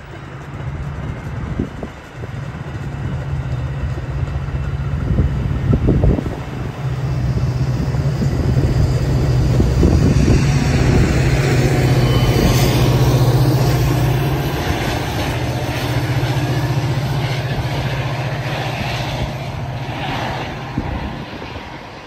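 Diesel-hauled Metra bilevel commuter train passing close by, with a steady low engine hum and the rumble of its cars on the rails. The sound is loudest about halfway through and eases off near the end, with a few knocks along the way.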